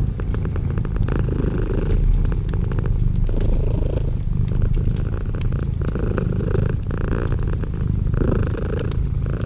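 Domestic cat purring continuously, the purr changing with each in-breath and out-breath about every second or so.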